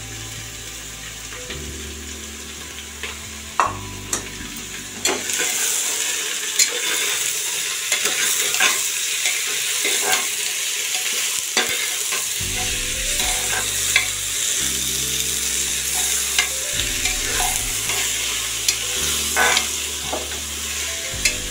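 Chopped bottle gourd sizzling in hot mustard oil with fried onions in an aluminium pressure cooker. It is stirred with a steel spatula that clicks and scrapes against the pot. The sizzle grows louder about five seconds in.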